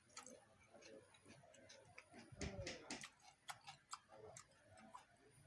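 Near silence with scattered faint clicks and ticks.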